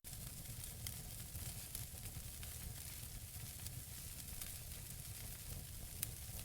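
Wood fire burning in a fireplace: a steady soft hiss of burning logs with scattered small crackles and pops, one sharper pop about six seconds in.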